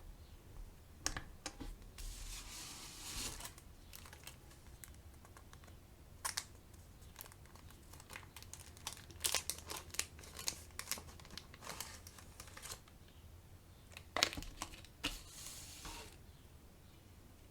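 Product packaging being handled: plastic crinkling, with many sharp clicks and taps in between.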